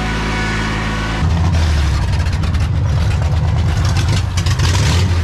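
A vehicle engine running, turning louder and rougher about a second in.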